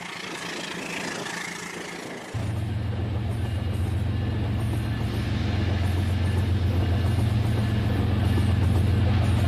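Rail King toy train's electric motor humming steadily. The hum starts abruptly a little over two seconds in, after a quieter stretch of faint hiss.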